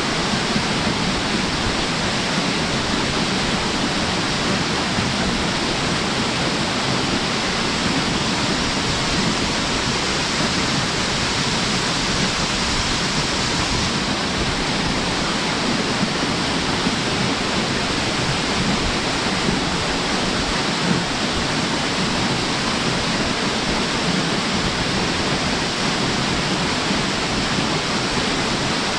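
A waterfall pouring steadily into its plunge pool: a loud, even rush of falling water.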